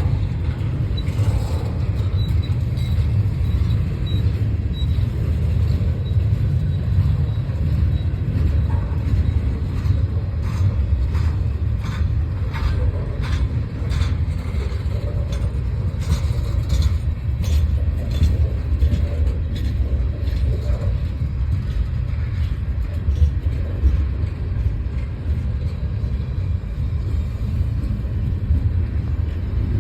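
Train running by: a steady low rumble, with a run of light clicks through the middle.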